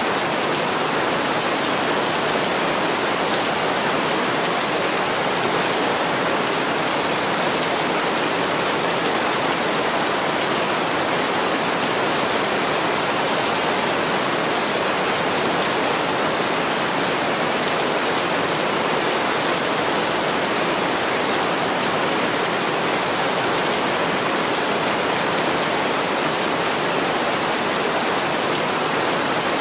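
Heavy rain falling steadily, a dense even hiss that does not change.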